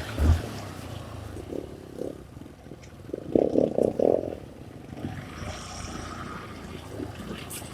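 Honda CRF150 dirt bike's single-cylinder four-stroke engine running at low revs, with a few quick throttle blips about three and a half seconds in.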